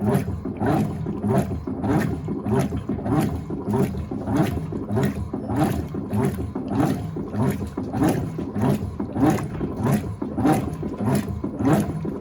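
Electrolux LTA15 top-loading washing machine agitating, the agitator reversing in a steady rhythm of about two strokes a second as it churns the wash.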